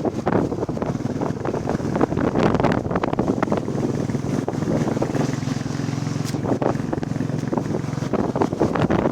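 Royal Enfield Classic 350's single-cylinder engine running steadily under way, with heavy wind buffeting on the microphone.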